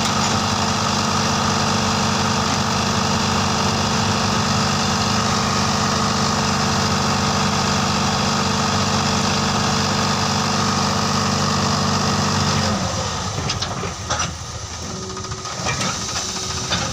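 John Deere tractor's diesel engine running steadily, then its drone cuts off suddenly near the end, leaving quieter, irregular knocks and clatter.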